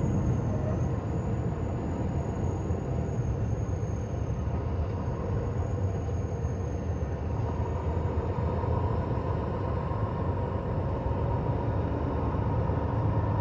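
Steady engine and road noise inside a semi-truck's cab cruising on the highway, with a faint high-pitched whine throughout.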